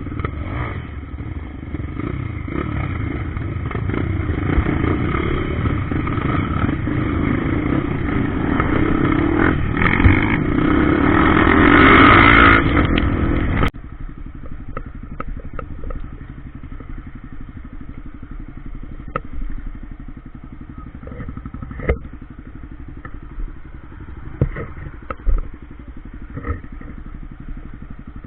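Trail motorcycle engine running hard under load, growing louder toward a peak about twelve seconds in. It then drops off abruptly to a quieter, steady engine sound with occasional sharp knocks and clatter.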